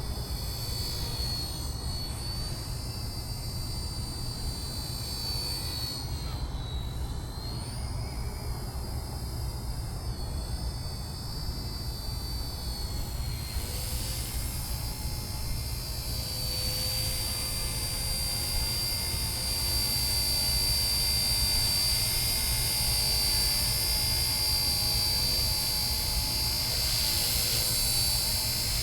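RC ERA UH-1 Huey scale model helicopter running: a high electric-motor and gear whine that dips briefly about seven seconds in, then steadies and grows a little louder in the second half, over a constant low rumble.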